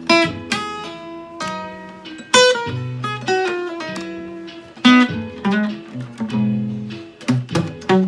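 Blues guitar playing an instrumental passage, picked notes and strummed chords over held low bass notes.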